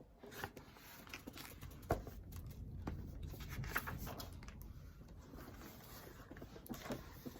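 Faint rustling and small clicks of a paper picture book being handled, its pages turned.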